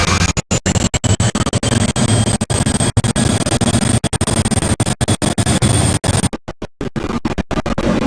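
Loud jet engine noise from an Airbus A380, a heavy low rumble with a faint high whine rising slowly in pitch, as when the engines spool up. The sound keeps cutting out for split seconds, most often near the end, which gives it a choppy, scratching quality.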